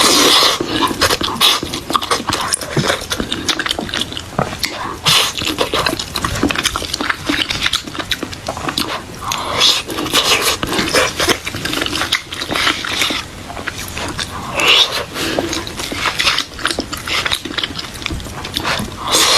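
Close-miked chewing and wet mouth sounds of a person eating, with many small smacks and clicks.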